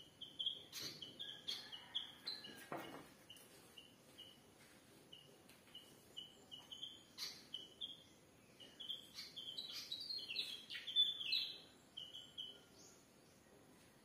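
Small birds chirping: a steady run of short, high chirps, about three a second, which grows busier and louder near the end. A few sharp clicks fall in between.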